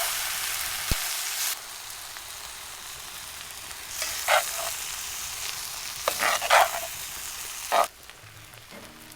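Food sizzling as it fries over the fire, with a steady hiss that drops in level about a second and a half in. A utensil scrapes or knocks against the pan a few times. The sizzling stops near the end.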